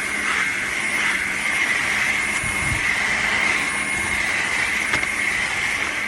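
Cordless wet-dry vacuum mop running steadily, its motor giving a constant high whine over a rush of suction.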